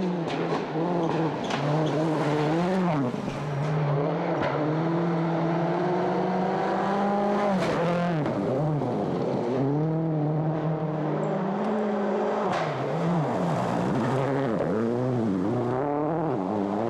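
World Rally Car's four-cylinder turbocharged engine at full stage pace. Its pitch climbs and drops back sharply several times as the driver shifts and lifts off for corners.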